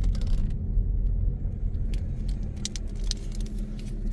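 Car running at low speed, heard from inside the cabin: a steady low engine and road rumble with scattered light clicks and rattles.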